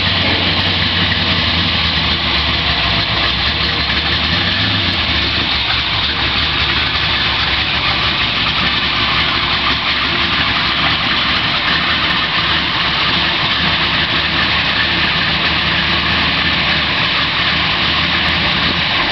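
Race-built 820-horsepower 426 Hemi V8 of a 1968 Plymouth Road Runner idling, loud and steady, as the car creeps up toward the drag-strip start line.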